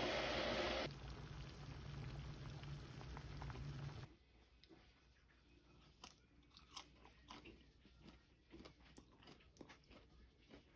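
A steady rushing noise cuts off suddenly about four seconds in. After it comes close-up crunching: a person chewing crisp food, a string of small irregular crunches.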